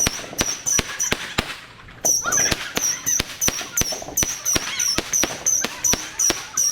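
Fireworks going off in a rapid series of sharp bangs, about three or four a second, with a short lull about two seconds in.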